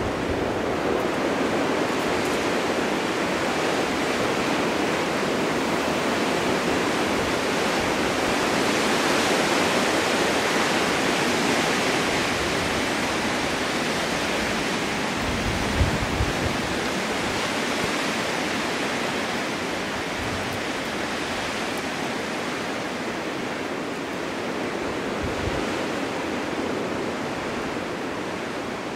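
Snowstorm wind blowing as a steady rushing hiss that swells and eases, with a few brief low thuds near the middle.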